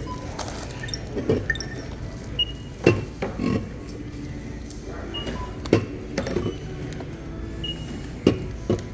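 Shop ambience: packaged items and containers knocking and clinking as they are handled, over a steady low hum, with short high beeps every two and a half seconds or so.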